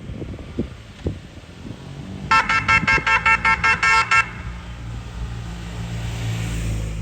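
A horn tooting about ten times in quick succession, roughly five toots a second, for just under two seconds. A low engine rumble follows and grows louder toward the end.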